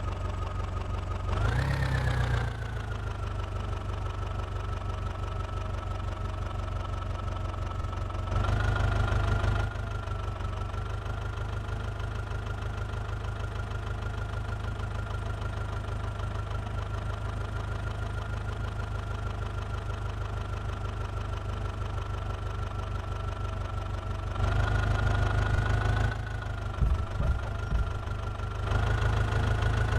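JCB 3DX backhoe loader's diesel engine running at idle, revving up briefly several times as the hydraulics work, with a few short knocks near the end.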